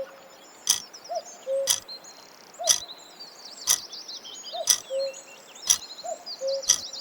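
A steady tick once a second, each tick paired with a short low tone, over a background of chirping birdsong: a quiz countdown timer running over a recorded bird ambience.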